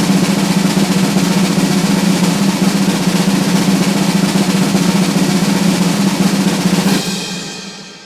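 A loud, sustained snare drum roll in added music, which fades out near the end.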